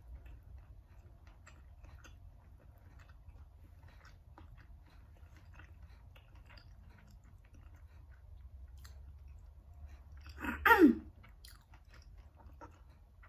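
Faint chewing of chicken feet cooked in coconut milk, with small wet mouth clicks. A short, louder sound falling in pitch comes about ten and a half seconds in.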